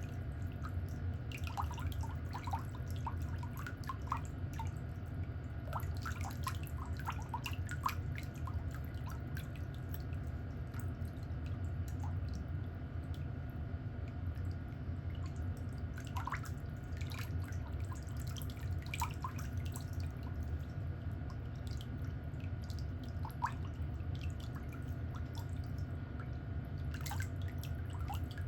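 Scattered light ticks and clicks, some in quick clusters, over a steady low hum.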